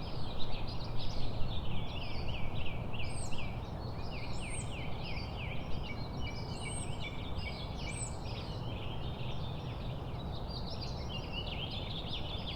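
Birds chirping in a busy, rapid chorus of short falling notes, with a few higher arched calls. A steady low rumble runs underneath.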